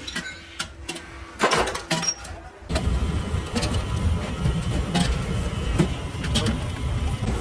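Scattered sharp knocks and clatters, then about two and a half seconds in a machine starts running with a steady low rumble and occasional clicks.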